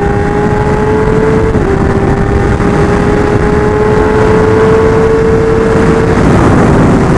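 Kawasaki Ninja ZX-10R inline-four engine pulling hard at high revs, its pitch climbing slowly with a brief dip about one and a half seconds in, over a loud rush of wind and road noise.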